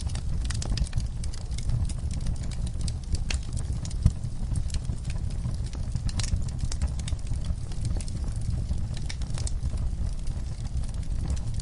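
Log fire burning in a fireplace: a steady low rumble of flames under scattered sharp crackles and pops, one louder pop about four seconds in.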